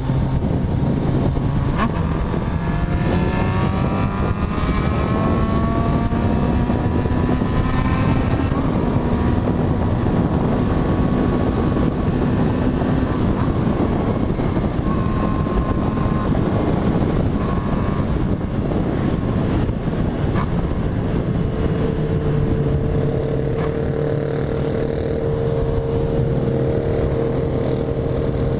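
Motorcycle engine running under way, its pitch rising over the first several seconds as it accelerates, then holding steadier, over a dense rush of wind and road noise.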